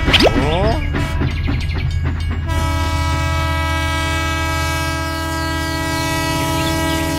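Train horn sounding one long, steady blast that starts about two and a half seconds in, over a steady low rumble; a few quick rising chirps come in the first second.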